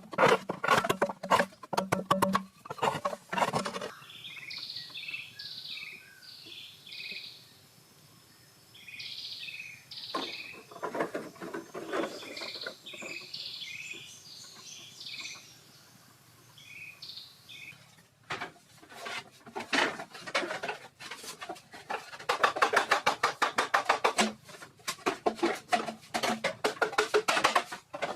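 Small birds chirping in short repeated calls. Before and after them come long stretches of rapid scraping and knocking from hand work, loudest in the last third.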